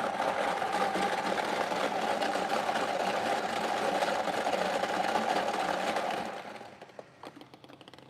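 Raffle draw machine running during a number draw: a dense, fast rattle of clicks for about six seconds that then dies away in a few scattered clicks as it comes to rest.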